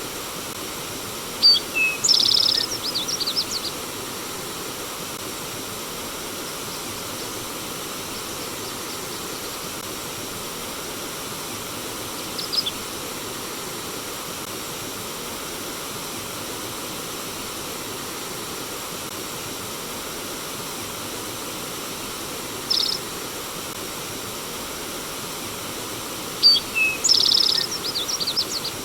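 Steady rush of flowing stream water with a songbird singing over it: a quick phrase of chirps about two seconds in, repeated near the end, and two short single calls in between.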